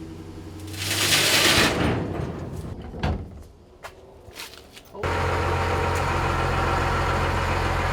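Truck engine running, with a loud hissing burst about a second in and a few sharp knocks a couple of seconds later, then, after a sudden cut, a steady engine idle.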